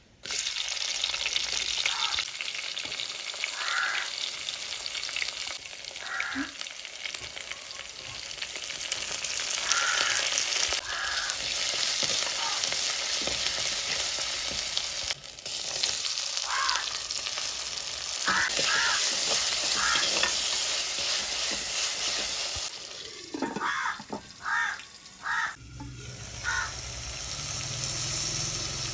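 Sliced shallots and curry leaves frying in hot oil in an earthenware clay pot: a loud sizzle that starts abruptly as the shallots drop in, with a metal spoon stirring through it.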